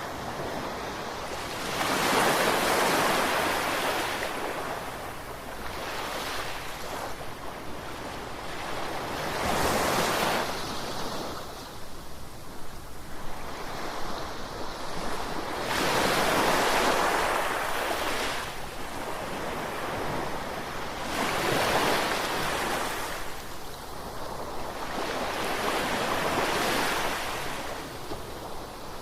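Ocean waves breaking and washing in, the surf swelling and ebbing in repeated surges, five louder ones over the span.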